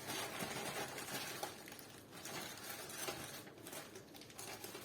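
Faint rustling, small clicks and knocks of things being moved about while someone rummages for a tube of grease.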